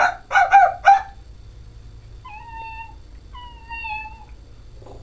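A man imitating a dog with his voice: three short, loud barks, then two drawn-out, slightly falling whines.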